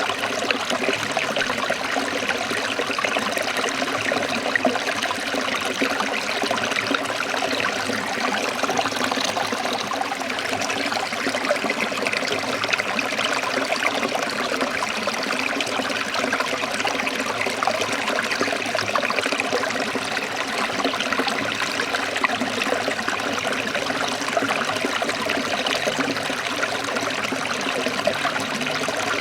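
Trickling stream of water running steadily, an even splashing hiss with no breaks.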